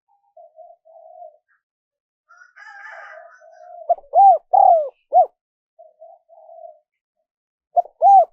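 Spotted dove cooing: soft, low murmured notes, then a loud phrase of three arched coos about four seconds in, and the same phrase starting again near the end.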